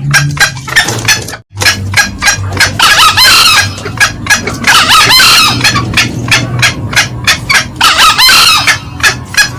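Green junglefowl lure call, male and female: a steady run of quick cackling notes, several a second, with louder crowing bursts at about three, five and eight seconds. The sound cuts out briefly about a second and a half in.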